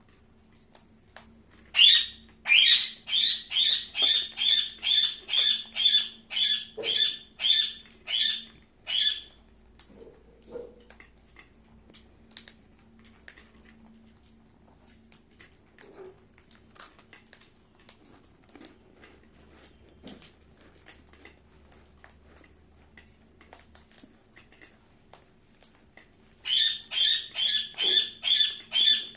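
Pet parrot screeching: a fast run of harsh, evenly repeated calls at about two a second for some seven seconds, then a quiet stretch with faint clicks, then another run of the same calls near the end.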